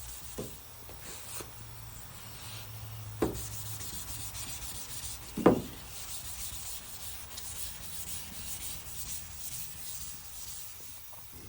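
Sandpaper rubbing steadily over the painted and primed steel of a truck's body panel as the repair area is sanded down. Two sharp knocks come about three and five and a half seconds in, the second the loudest.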